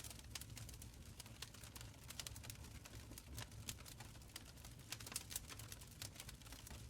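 Wood fire crackling in a stone fireplace: irregular sharp pops and snaps several times a second over a soft low rumble of burning.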